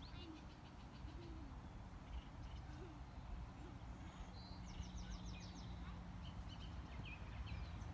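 Faint park ambience of wild birds chirping and trilling, with a quick run of chirps about five seconds in, over a low steady hum.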